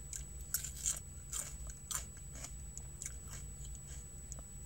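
Close-up chewing of a crunchy mouthful of green vegetable: a string of irregular crunches, over a steady low hum.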